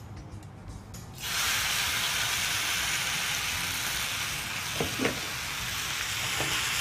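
Boiled noodles dropping into hot oil in a frying pan, setting off a loud, steady sizzle that starts suddenly about a second in. A few short knocks against the pan near the end.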